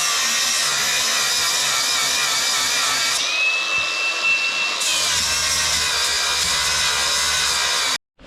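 Angle grinder cutting through a steel bolt on a fertiliser spreader's mount, running steadily. About three seconds in, a high squeal rises and holds for a second and a half as the disc bites. The grinder stops abruptly near the end.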